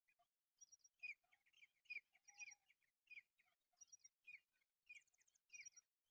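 Birds chirping: a steady run of short, high notes with a quick three-note phrase that repeats about every second and a half.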